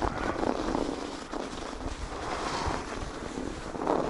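Wind buffeting the microphone: a steady rushing noise that rises and falls.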